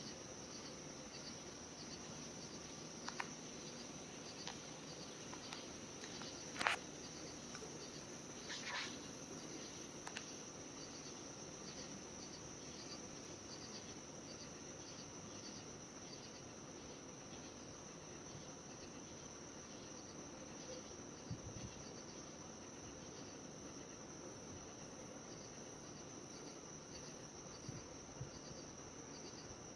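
Insects chirping in a steady high chorus with a regular pulse. A few faint short clicks come about seven and nine seconds in.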